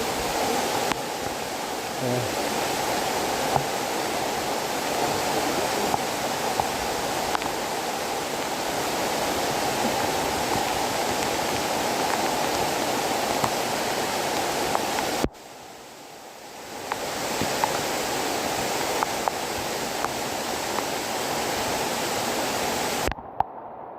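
Waterfall and heavy rain: a steady, dense rushing of falling water. It drops off suddenly about 15 seconds in and swells back within a couple of seconds, then cuts out abruptly near the end.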